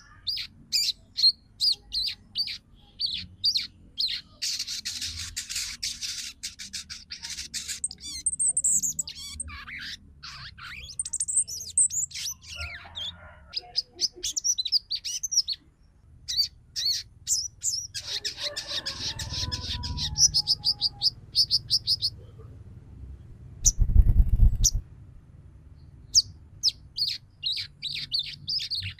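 Female crimson sunbird (sogon) chattering to call a male: rapid runs of high, thin chirps broken by fast trills and a few looping whistles. A dull thump comes about 24 seconds in.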